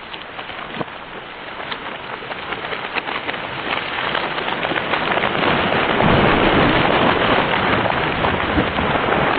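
A felled tree coming down: many small cracks and snaps of wood and branches, building to a loud crashing rush with a low rumble about six seconds in.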